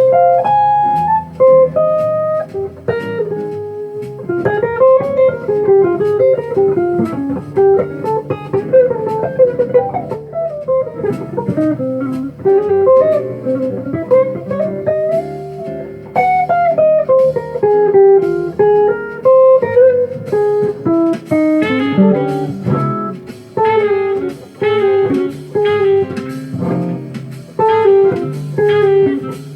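Jazz guitar playing a moving single-note line over low bass notes, the playing growing denser and more chordal from about two-thirds of the way in.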